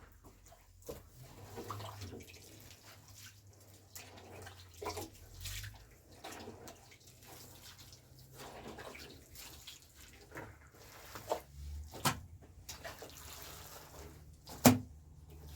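Wet soil and water being mixed and worked by hand into mud: uneven splashing and squelching, with several sharp knocks, the loudest near the end.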